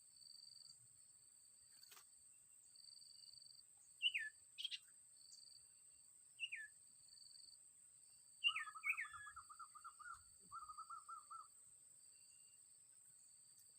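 Faint small songbird calls: a few short chirps that fall in pitch, scattered through, and two fast trills about two-thirds of the way in.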